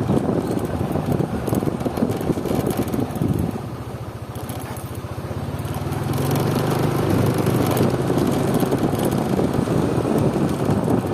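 A motor engine hum sets in a few seconds in and grows louder about halfway through, over a constant rumbling outdoor noise.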